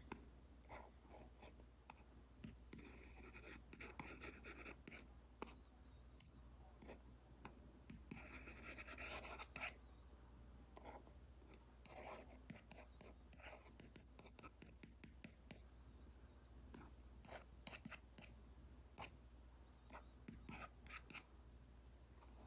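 Apple Pencil Pro tip stroking and tapping on an iPad's paper-like matte screen film: quiet scratchy pen strokes and light taps, with two longer runs of scratching about three and eight seconds in.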